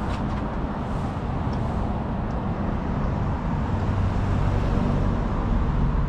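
Steady road traffic noise of passing cars on a city street, with a low rumble that swells in the second half.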